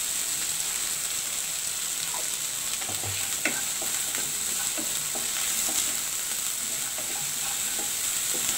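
Ground spice paste of coriander, cumin, garlic and chilli, with turmeric and salt, sizzling steadily in hot oil in a kadai, with a spatula scraping and stirring it from about two seconds in. This is the masala being fried until it releases its oil.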